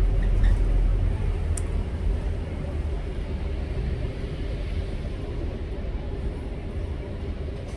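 City bus running, its engine and road rumble heard from inside the bus; louder for about the first two seconds, then settling lower.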